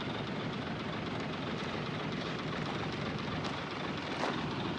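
Heavy diesel earthmoving machinery running steadily, with a few short metallic clicks near the end.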